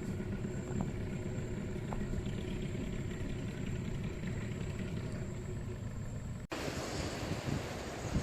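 Boat engine running steadily with a low rumble and a thin high whine over it; about six and a half seconds in the sound cuts to a rougher engine-and-wind noise with wind buffeting the microphone.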